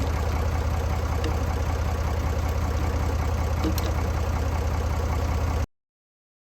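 Tractor engine idling steadily with a low, even rumble. It cuts off suddenly about five and a half seconds in.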